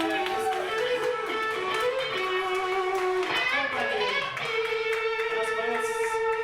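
Electric guitar played alone, with a few notes and pitch slides. About four and a half seconds in, it settles into one long sustained note.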